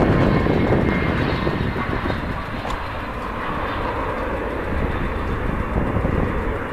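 Jet airliner engines running as an aircraft passes, a steady rushing noise with a faint high whine, easing slightly after about two seconds. Gusty wind buffets the microphone underneath.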